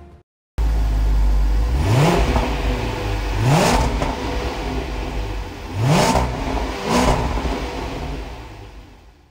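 Range Rover P525's 5.0-litre supercharged V8 running at idle through its quad exhaust, revved in four short blips, two close together about 2 and 3.5 seconds in and two more about 6 and 7 seconds in. The sound fades out near the end.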